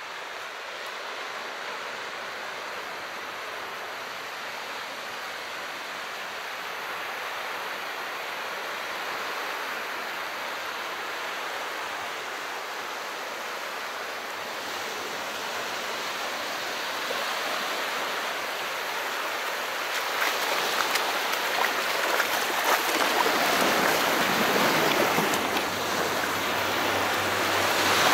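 Calm sea waves washing onto a shore: a steady rush of water that swells louder over the last third, with more fizzing and a deeper wash near the end.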